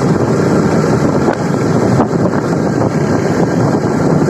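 Steady wind rush on the microphone of a moving motorcycle, with the motorcycle's engine running underneath.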